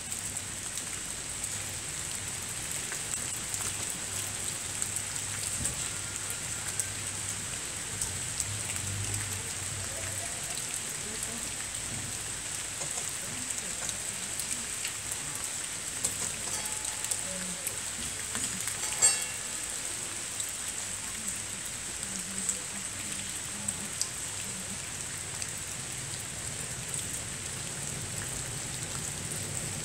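Steady rain falling on wet cobbles and pavement, with many small drip ticks throughout. A single sharp click about two-thirds of the way through is the loudest sound.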